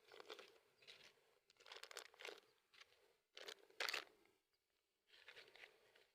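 Faint crinkling and tearing of plastic sausage packaging being pulled open by hand, in four short bursts.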